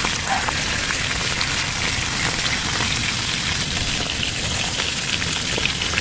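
Close-miked crackling of slate pencil paste: a dense, steady stream of tiny clicks and fine crackles.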